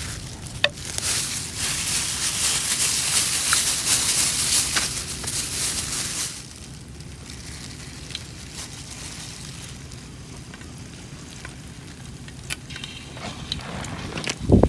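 Flour-coated shrimp frying in hot oil, sizzling loudly; about six seconds in the sizzle drops off suddenly to a faint hiss with scattered crackles.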